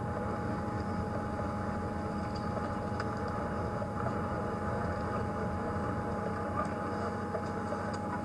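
Safari game-drive vehicle's engine running steadily at a low rumble, with a faint steady whine above it.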